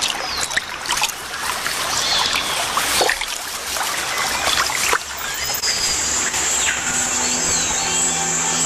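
Water splashing and dribbling as a swimming jaguar moves through a river, with birds chirping. Music with sustained tones comes in about two-thirds of the way through.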